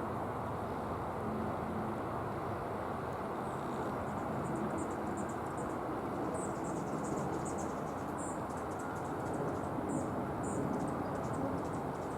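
Steady hiss of falling rain, with high, short chirps starting about three and a half seconds in and repeating irregularly.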